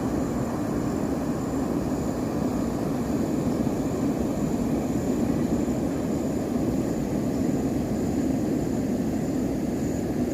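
A steady motor drone with a faint high whine, unchanging.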